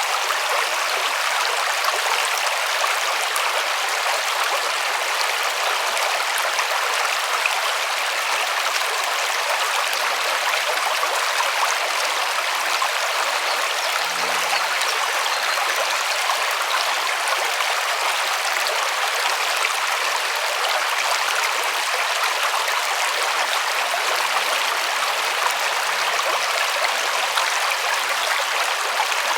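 River water rushing and splashing over stones in an even, steady flow. Faint low hums come and go underneath in the second half.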